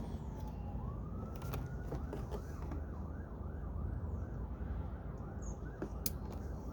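Emergency vehicle siren: a slow wail falling and then rising in pitch, switching about two seconds in to a fast yelp warble of roughly three cycles a second, over a steady low rumble.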